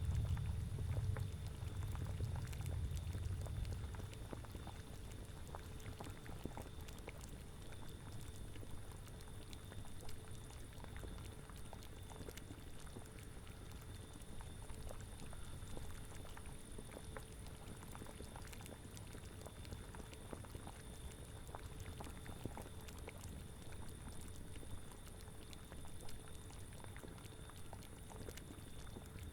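Bubbling cauldron: a thick liquid boiling with a steady scatter of small pops, over a low wind rumble that is stronger in the first few seconds and then settles.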